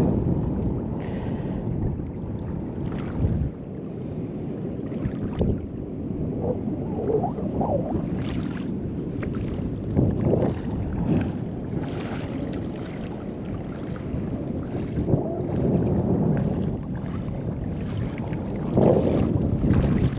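Wind buffeting the microphone, a steady low rumble, over small waves washing at the water's edge.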